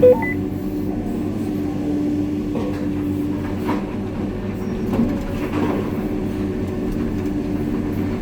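Diesel engine of a heavy wheel loader running steadily, a constant drone. A short beep comes right at the start.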